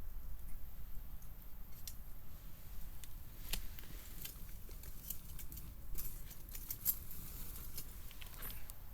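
Wood fire crackling, with irregular sharp pops and snaps over a low steady rumble. The pops come thickest about halfway through.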